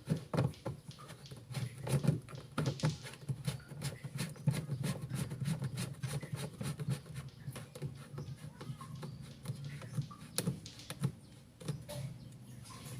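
Irregular clicks and light knocks of washing-machine parts being handled and fitted back together by hand, over a steady low hum.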